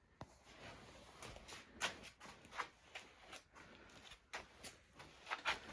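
Faint, irregular rustling and light clicks of handling and movement, with a few sharper ticks about two seconds in and near the end.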